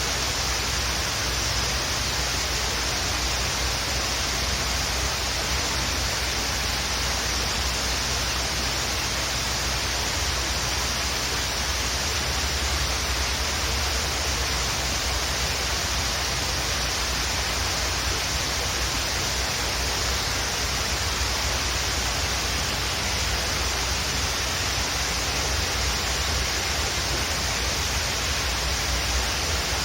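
Waterfall rushing in a steady, unbroken hiss with a low rumble underneath.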